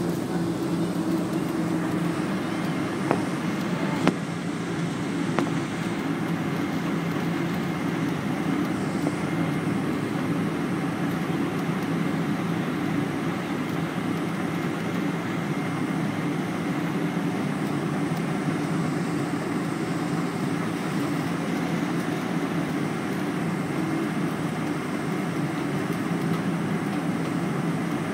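Steady cabin noise inside a Boeing 777, the low hum of its engines and cabin air at an unchanging level, with a thin steady whine above it. A few light clicks come about three to five seconds in.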